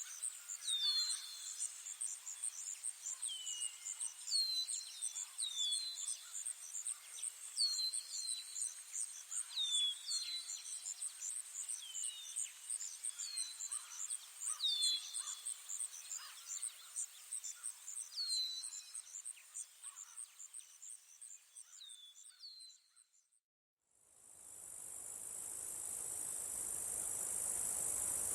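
Insects trilling: a fast, even, high-pitched pulsing trill with short falling chirps repeating about once a second, fading out some 22 seconds in. After a brief break a loud, steady, high insect buzz comes in and swells.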